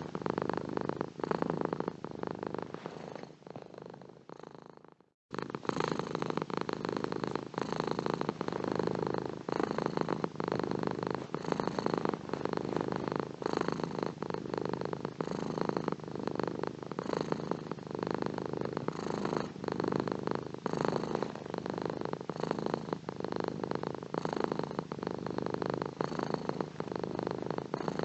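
Domestic cat purring, rising and falling in a slow, regular rhythm. About three seconds in it fades away to a moment of silence, then starts again abruptly.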